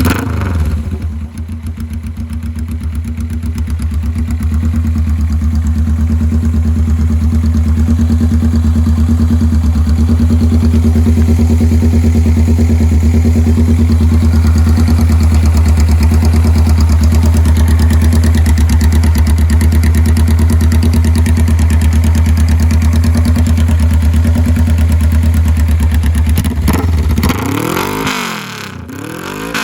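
Straight-piped Suzuki GS400's air-cooled parallel-twin engine idling steadily, then revved twice in quick blips near the end.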